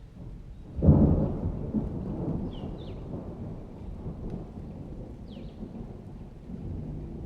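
A thunderclap about a second in, rumbling on and slowly fading over several seconds, over steady rain. A faint high squeak recurs about every two and a half seconds.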